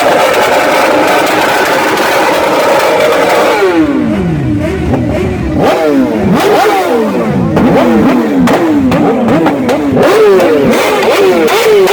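Loud motorcycle engines revving over and over. The pitch is held high for the first few seconds, then drops and climbs again in quick repeated blips of the throttle.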